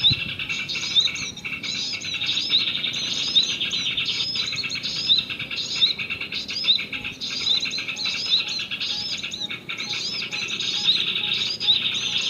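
Small birds chirping rapidly and continuously in high, short notes that repeat in a steady pattern with no break.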